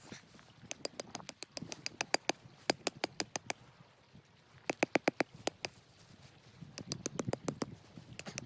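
Rapid, sharp clicks and crackles in three bursts, with short quiet gaps between them.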